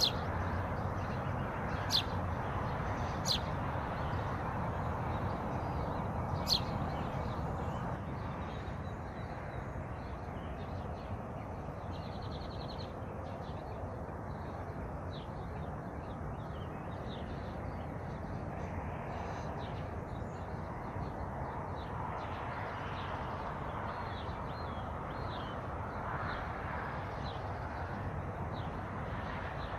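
Wild birds calling and chirping: a few sharp, high calls in the first seven seconds, then many small, faint chirps, over a steady rushing background noise.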